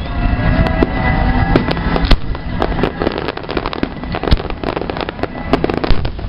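Fireworks salute: rapid, irregular bangs and crackles from many bursting shells over a continuous low rumble.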